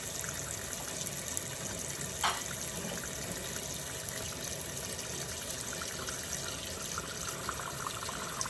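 Kitchen tap running steadily as raw chicken is rinsed under it in the sink, with one short clink about two seconds in.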